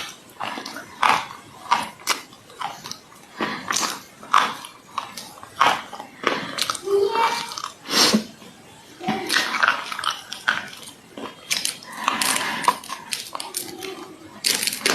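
Dry clay being bitten and crunched, with irregular sharp crackly crunches following one another every half second or so.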